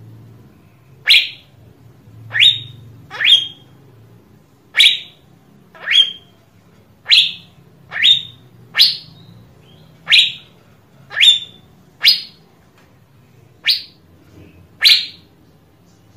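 Asian fairy-bluebird calling: a series of about thirteen short whistled notes, each sweeping sharply upward, spaced roughly a second apart.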